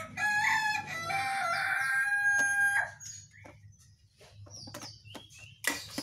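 A loud rooster-style crow, one long call of nearly three seconds, followed by scattered short chirps and a sharp click near the end.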